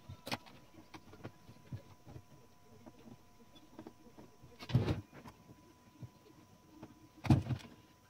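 Metal typewriter parts and tools being handled on a workbench: scattered light clicks and taps, with two louder short clatters, one about five seconds in and one about seven seconds in.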